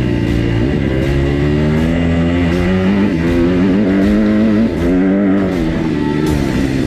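Motocross dirt bike engine revving up and down with the throttle, over background music.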